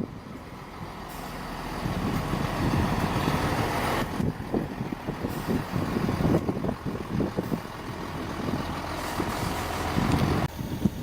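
A train running through the station, a steady heavy rumble that builds about two seconds in, with gusts of wind buffeting the microphone.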